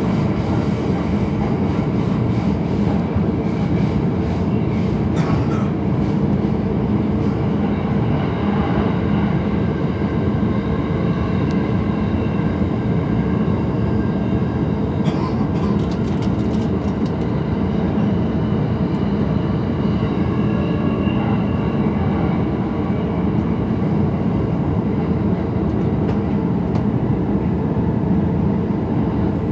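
Running noise inside a JR East E231 series Green car at speed: a steady rumble of wheels on rails, with a few faint clicks about halfway through.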